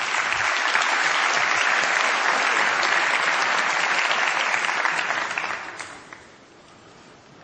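Audience applauding, then dying away about six seconds in.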